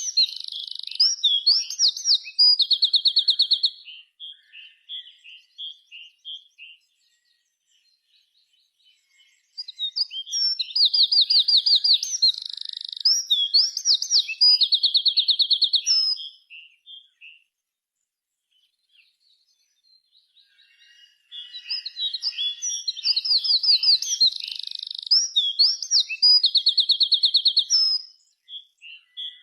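A songbird singing in three bouts of a loud, rapid trilled song, the same phrase each time, each bout trailing off into scattered softer notes before a pause of a few seconds.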